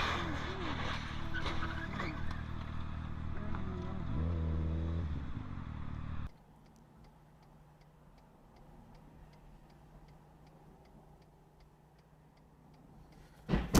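Road and engine noise of cars in traffic recorded by a dashcam, with a short pitched tone about four seconds in. About six seconds in it cuts abruptly to a quiet low hum with steady light ticking, about three ticks a second.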